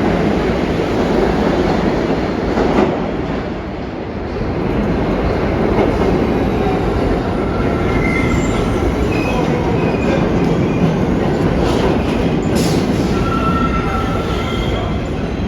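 Bombardier R62A subway train running on the rails with a loud, steady rumble of wheels and cars. Thin, high wheel squeals come and go over the second half.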